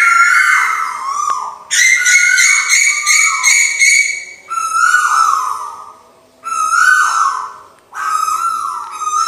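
Lure recording of a tuwu bird calling: about five loud calls, each roughly a second long and falling in pitch, repeated with short gaps.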